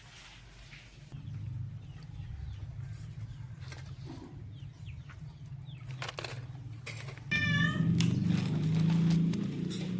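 A short, wavering animal call about seven seconds in, over a low steady hum that grows louder at the same moment.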